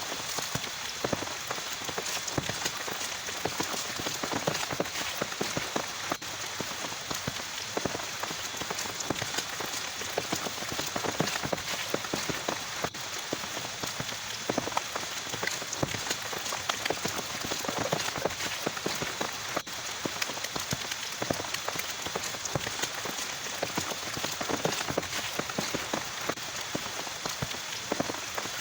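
Heavy rain falling steadily, a dense patter of individual drops striking a surface.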